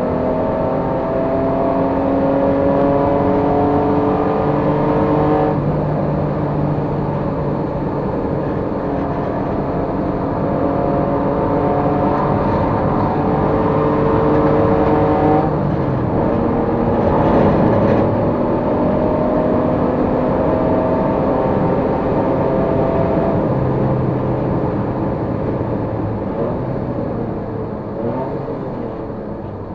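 Race car engine under load, its pitch climbing slowly through each gear and dropping back at upshifts, three times.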